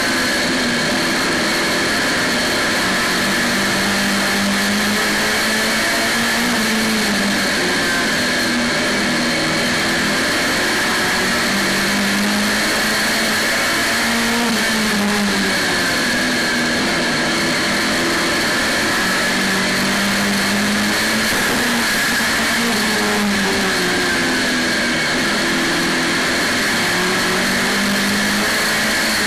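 Saloon stock car's engine heard from a camera inside the cockpit, running hard at a constant loud level, its note rising and falling every several seconds as the car accelerates and lifts. A steady high whine runs over it.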